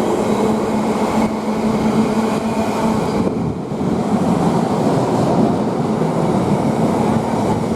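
Freight train passing close by over a crossover: a steady rumble of wheels and wagons on the track, with a low hum that drops out for a few seconds midway.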